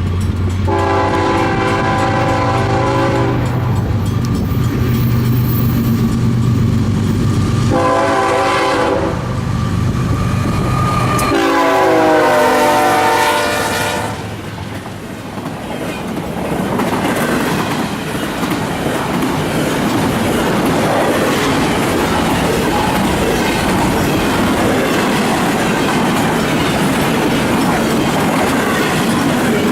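BNSF locomotive horn sounding three blasts (long, short, long) as it nears the grade crossing, the last blast dropping in pitch as the locomotive passes. The train then rolls by steadily, its wheels clacking over the rail joints.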